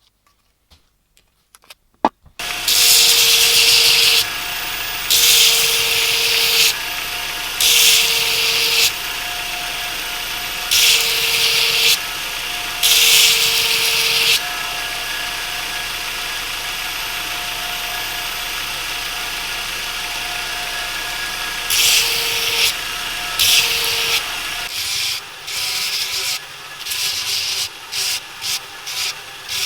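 An electric abrasive power tool switches on about two seconds in and runs steadily. A part is pressed against it about seven times, each contact a loud rasping surge of a second or so, then in quick short touches near the end: metal being ground or sanded back, as in rust removal.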